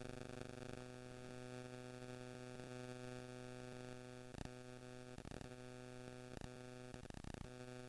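Steady electrical hum with a buzzing edge, like mains interference on the recording, broken by a few short crackles.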